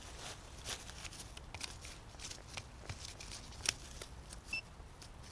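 Rustling and scraping in forest soil and leaf litter, a quick run of small scratches and clicks while digging for a metal detector target near the surface, with a short electronic beep a little over four seconds in.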